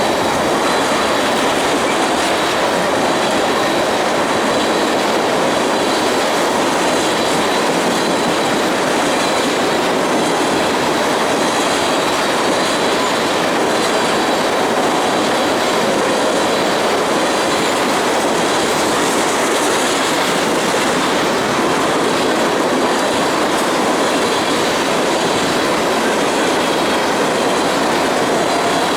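Tank cars of a freight train rolling steadily past, a continuous loud rumble and rattle of steel wheels on rail, with a faint steady high squeal from the wheels.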